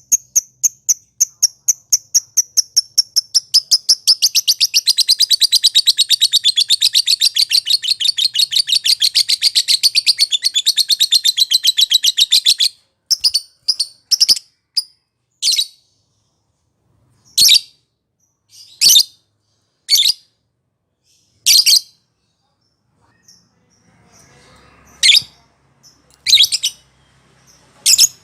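Lovebird ngekek: a run of high, quick chirps that speeds up into a long, unbroken chattering trill, which breaks off suddenly about 13 seconds in. After it come single sharp chirps, a second or two apart.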